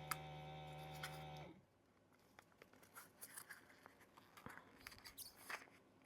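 A faint steady hum that cuts off suddenly about a second and a half in, then faint scattered clicks and scrapes of hands working at the tight lid of a small jar of mica powder.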